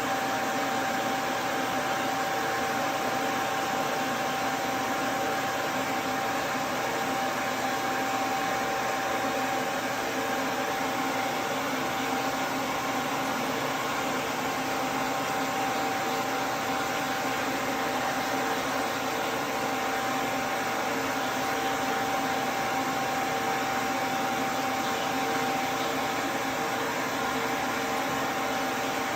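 Duz V3 pet dryer running, its fan blowing with a steady whir and an even high hum.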